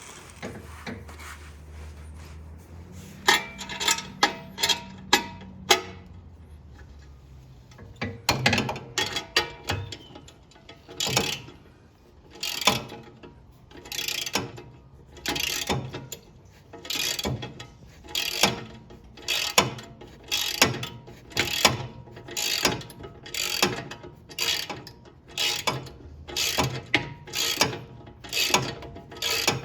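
Ratchet wrench clicking as a bolt is tightened, first in short uneven runs, then from about a third of the way in in steady back-and-forth strokes, roughly three strokes every two seconds.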